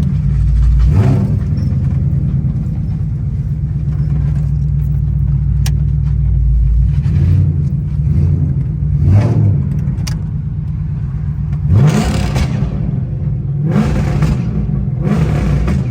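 Ford Crown Victoria's 4.6-litre V8 running steadily with its exhaust freshly repaired, now without exhaust-leak noise. The engine rises briefly in pitch a few times, near 9 seconds and around 12 seconds.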